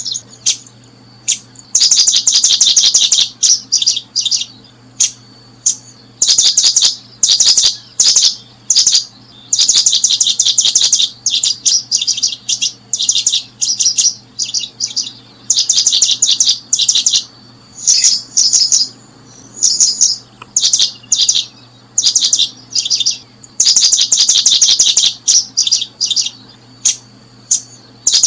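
Small birds chirping close by: short rapid trains of high, sharp notes repeated over and over, with a faint steady low hum underneath.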